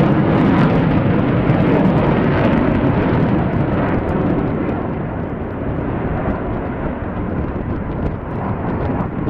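Military fighter jet engine noise, a loud rumbling that slowly fades as the jet draws away.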